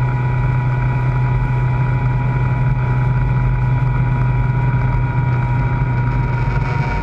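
Kawasaki ZZR600's inline-four engine running at steady revs under way, a constant drone with a thin steady whine above it.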